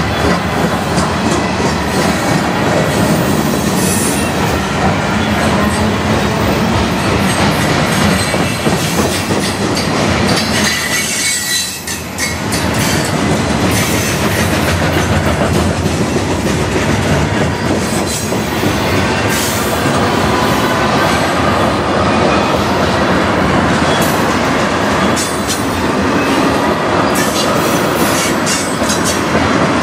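Freight train cars (covered hoppers, then tank cars) rolling past close by: a steady rumble with wheels clattering over rail joints and a faint, high wheel squeal at times.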